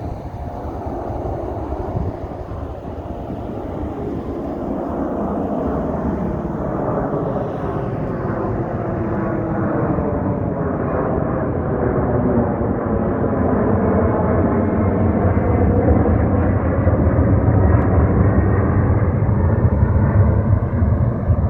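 Jet engines of a McDonnell Douglas MD-11F trijet freighter at takeoff power, a broad roar that builds steadily in loudness with a deepening low rumble. Sweeping tones glide through the middle of the sound as the aircraft moves relative to the listener.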